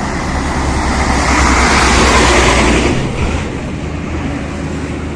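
A motor vehicle passing close by on the road: its noise swells over about two seconds and falls away sharply about three seconds in, over a steady low engine hum.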